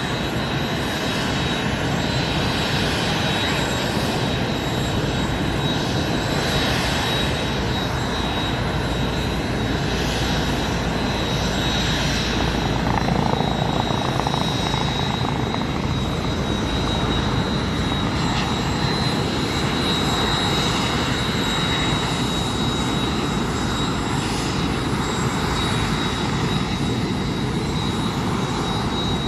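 Airbus Eurocopter EC135 T1 helicopter with its twin turboshaft engines, flying close by: steady rotor and engine noise with a thin, high, steady whine.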